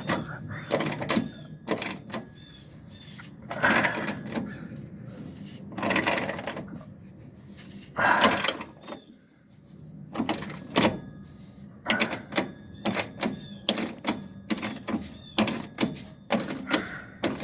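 Socket ratchet clicking in repeated strokes as a nut is run down a long thread while fitting a shock absorber. A few separate rasping strokes come first, then about two to three clicks a second over the last third.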